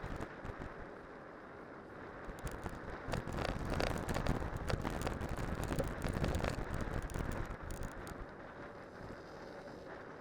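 Cyclocross bike with spiked tyres riding downhill: steady tyre and wind noise on the microphone, with a dense run of rattling clicks and knocks in the middle that eases off near the end.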